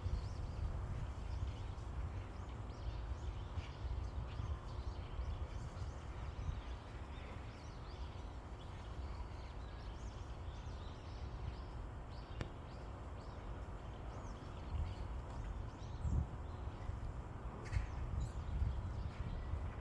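Outdoor ambience: a steady low rumble with faint, scattered short bird chirps over it.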